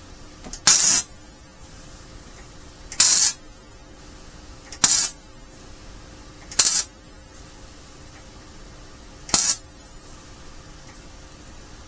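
Flux-core MIG welder laying five short tack welds on a steel trap's staking ring: brief crackling bursts of arc, each under half a second, a couple of seconds apart.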